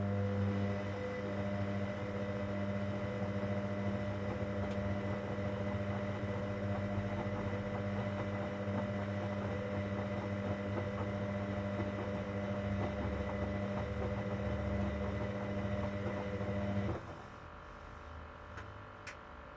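Hoover Dynamic Next washing machine running mid-cycle on a cotton 60 programme, a steady motor hum that cuts off suddenly after about seventeen seconds. A couple of faint clicks follow near the end.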